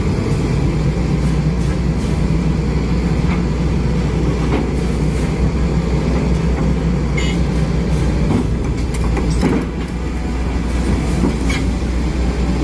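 A large engine running steadily with a low rumble, with scattered clicks and knocks over it.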